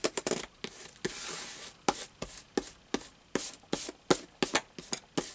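Hands pressing and smoothing glued paper pieces down on a collage page: a quick run of sharp taps, a few a second, with short stretches of paper rubbing.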